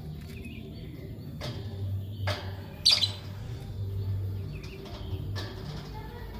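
Lovebirds chirping in short, sharp calls scattered irregularly, with one louder, shriller chirp just under three seconds in.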